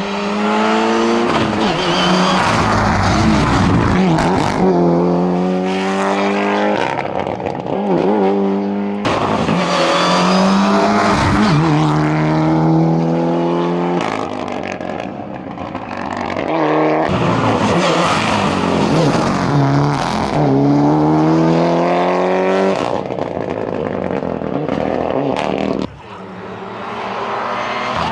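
Mitsubishi Lancer Evolution VII's turbocharged four-cylinder engine at full throttle, revving up and changing gear again and again: the pitch climbs in each gear and drops at each shift, every two to four seconds.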